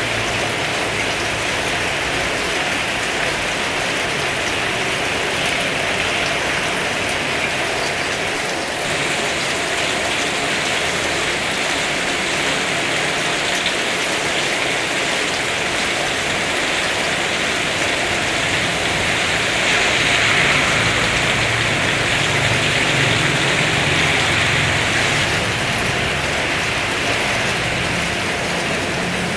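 Heavy rain falling in a steady dense hiss, swelling a little louder for several seconds past the middle.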